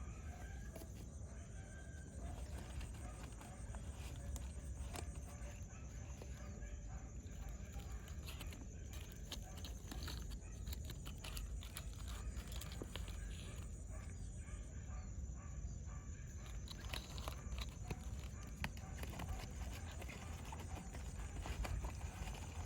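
Open-air ambience on the water: a steady low rumble, with faint distant animal calls and scattered light clicks.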